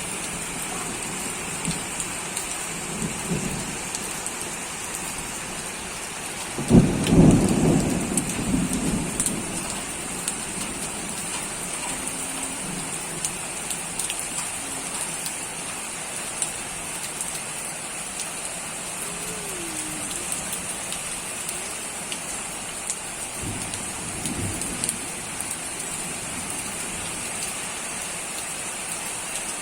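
Steady rain falling, with a loud roll of thunder about seven seconds in that lasts about two seconds, and a fainter rumble of thunder later on.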